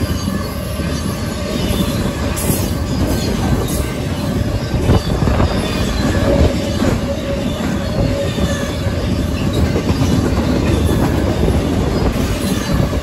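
Intermodal freight train cars rolling steadily past at close range, wheels running over the rails, with a faint wheel squeal about six seconds in.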